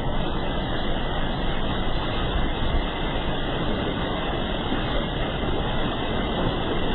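A vehicle in deep flood water: a steady low rumble with rushing noise, unbroken throughout.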